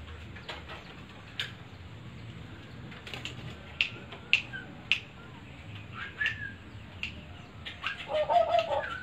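A caged tuwu bird makes scattered sharp clicks and snaps. It gives a short call about six seconds in, and near the end it starts a run of calls that grows louder.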